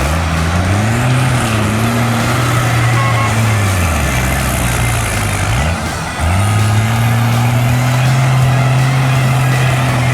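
Off-road race truck's engine running hard under load; its revs sag and fall away between about four and six seconds in, then pick up sharply and hold high and steady.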